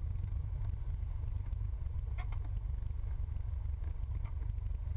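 Cessna 172's engine running at low power in the cockpit, a steady low rumble, with a couple of faint clicks.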